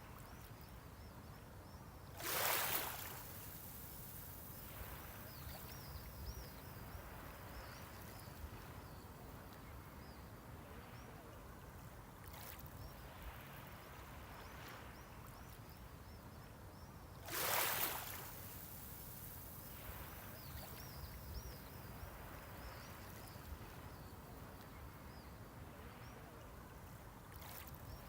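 Small sea waves breaking on the shore, two swells about fifteen seconds apart, over a steady hiss of water.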